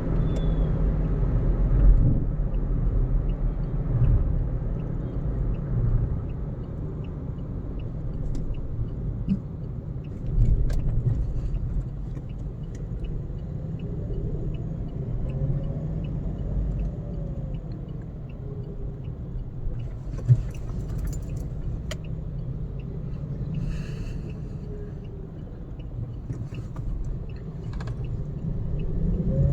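Car driving along a road: steady low engine and road rumble that swells and eases, with a faint regular ticking through the middle stretch.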